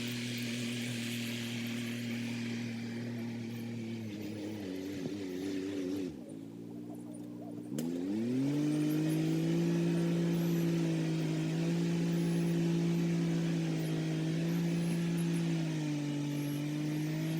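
Kubota SL35 tractor's diesel engine running while rotary tilling; its speed wavers and falls off about five seconds in, then climbs back about eight seconds in and holds steady at a higher speed, with brief small dips near the end.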